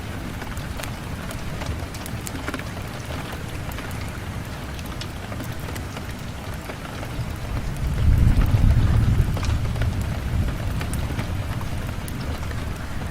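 Steady rain with scattered drop ticks. A low rumble of thunder swells about eight seconds in and slowly fades.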